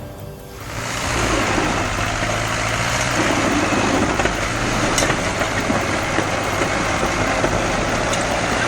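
Tractor engines running hard under load, a dense, loud noise with a steady low hum that starts about a second in.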